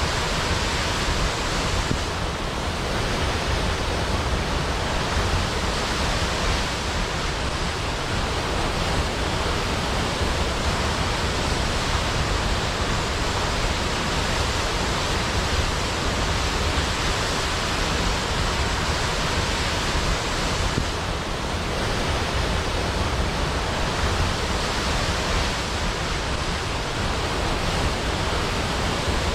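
Large waterfall cascading down a cliff, a loud steady rush of falling water.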